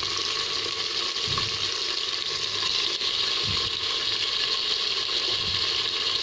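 Onions and tomatoes sizzling steadily in hot oil in the bottom of a pressure cooker. A few soft low knocks come about every two seconds.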